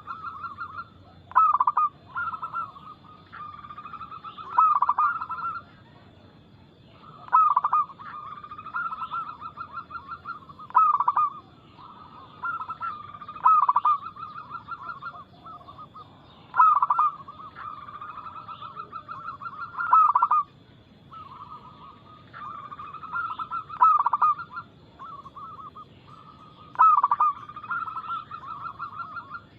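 Zebra dove (perkutut) cooing: its song of quick, clear coos, repeated in phrases about every three seconds, each phrase opening with a few loud, accented notes.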